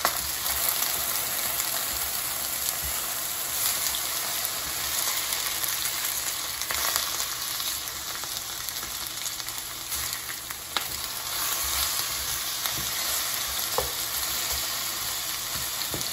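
Sliced potatoes sizzling steadily in olive oil in a frying pan, with a spatula scraping and clicking against the pan now and then as the slices are turned over.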